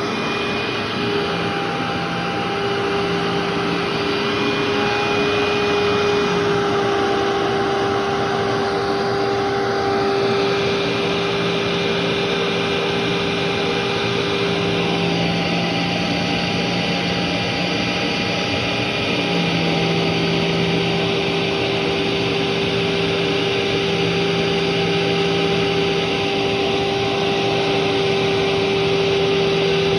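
Vacuum cleaner running steadily on carpet, a constant motor hum and airflow rush whose tone shifts slightly now and then as it is worked.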